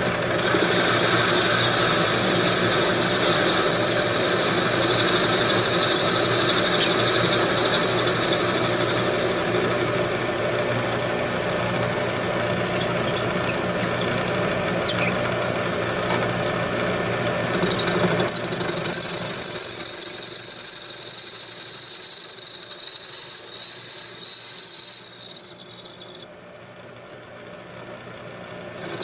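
Homemade all-steel lathe turning round stock, a steady high-pitched ring over the motor and cutting noise. About two-thirds of the way through the lower noise drops away; the ring carries on until it cuts off suddenly near the end, leaving a quieter stretch. The ringing is vibration carried through the all-steel frame, which the builder blames on the lathe not being cast iron.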